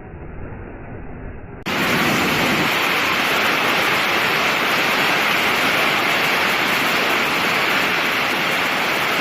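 Loud, steady rush of a waterfall, cutting in abruptly about a second and a half in after a quieter, muffled low rumble.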